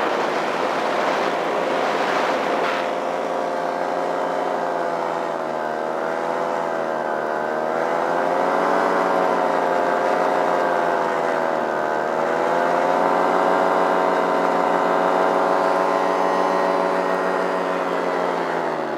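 Flat Top Super two-stroke paramotor engine with a Nirvana Rodeo muffler and intake silencer, running steadily, its pitch rising and falling gently every few seconds as the throttle shifts. Wind noise during the first few seconds.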